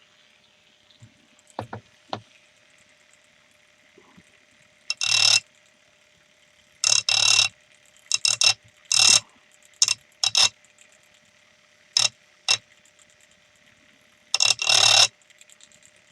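A tool being touched against a spinning sintered diamond wheel in short grinding passes, each under a second, over the wheel motor's steady hum. A few light clicks come before the first pass.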